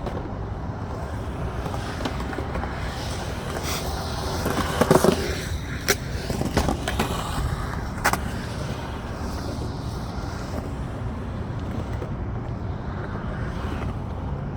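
Skateboard rolling over concrete with a steady rumble. About five seconds in comes a louder rough scraping passage, followed by sharp clacks of the board a second later and again near eight seconds in.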